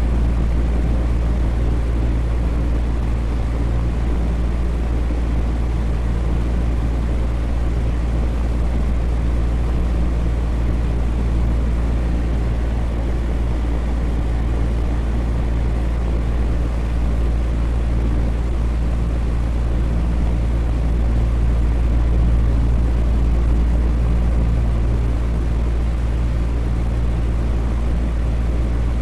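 Electric fan running steadily: a deep, even hum with a faint whoosh of moving air above it.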